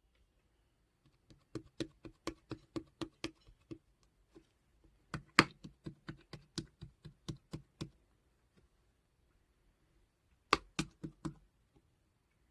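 Three runs of quick, sharp taps, about four a second, with pauses between; the loudest strokes come about five seconds in and again near ten and a half seconds.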